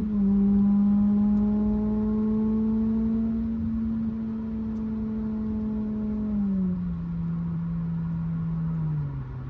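Acura RSX Type-S's K20Z1 four-cylinder engine running through an Invidia N1 catback exhaust, a steady drone whose pitch slowly eases down and then steps lower twice, about two-thirds of the way through and near the end.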